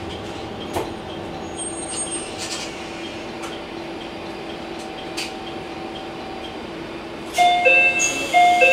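Inside a KiHa 120 diesel railcar rolling slowly into a station: a steady hum with a few sharp clicks from the wheels. Near the end a high squeal starts and stops a few times as the train brakes to a halt at the terminus.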